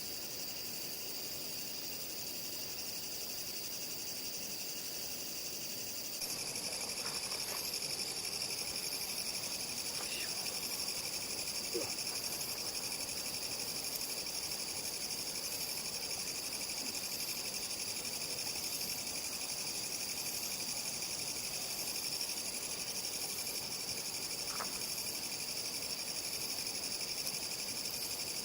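Night insects such as crickets chirping in a steady, continuous high-pitched chorus. About six seconds in, a higher trill joins and the chorus gets louder, with a few faint clicks now and then.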